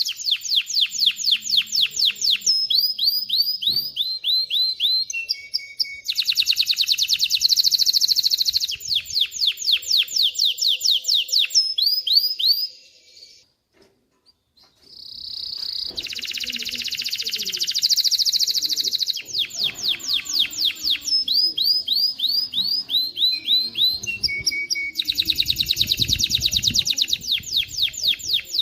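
Male canary singing: long rolling trills of rapid repeated notes, switching from one phrase to the next every second or two, with a pause of about two seconds about halfway through.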